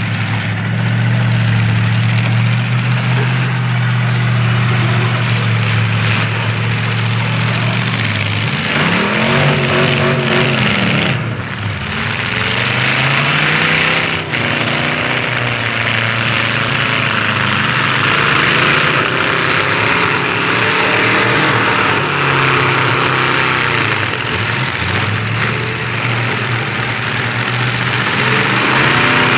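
Engines of several full-size demolition derby cars running: a steady hum at first, then revved hard up and down over and over from about eight seconds in as the cars push against each other in the mud.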